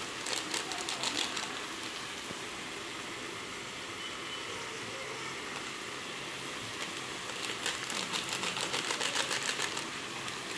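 Chopped capsicum frying in a pan, sizzling steadily. Two spells of rapid, even ticking sit over it, a short one at the start and a longer one from about seven seconds in.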